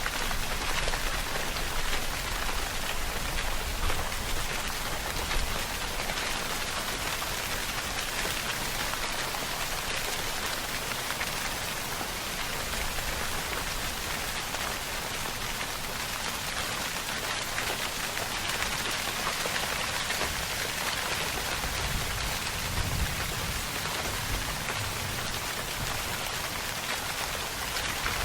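Steady rain falling on a surface, an even hiss of many drops with a few slightly louder spatters.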